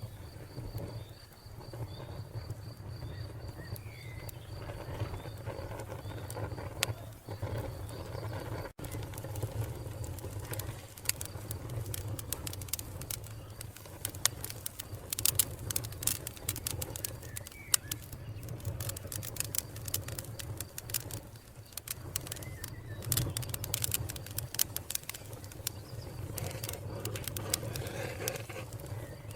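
Wood fire crackling with many sharp pops over a steady low rumble. A cricket chirps in a fast, even pulse until it cuts off about nine seconds in, and a bird calls faintly now and then.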